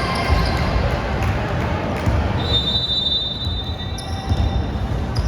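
Basketball game sounds in a gym: a steady rumble throughout, and a steady high-pitched squeal lasting about a second and a half, midway through.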